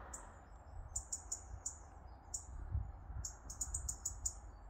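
Small bird chirping: short, very high chirps in quick clusters of two to five, over a low steady rumble.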